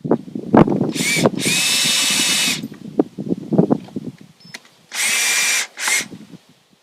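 Power drill running in several short bursts, two longer runs of about a second each and shorter ones, with knocks and handling noises in between.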